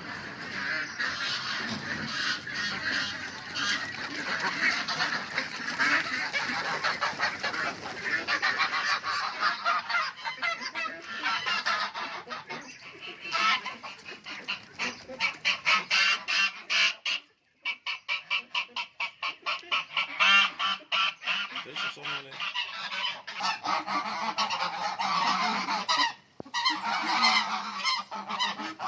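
A flock of domestic ducks calling loudly and continuously, many short honking calls overlapping, with runs of fast repeated calls in the middle.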